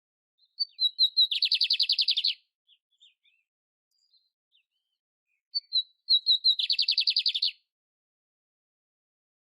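Canary (canário império) singing two song phrases. Each opens with a few quick descending notes and breaks into a fast, even trill of about a second.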